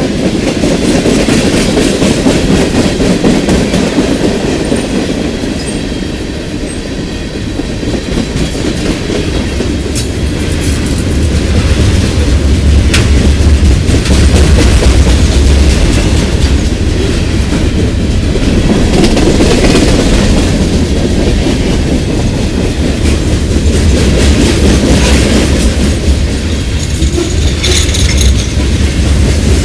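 Loaded CSX freight train passing close by, a long string of freight cars rolling with a steady rumble and the clickety-clack of wheels over rail joints. The low rumble grows heavier about a third of the way through.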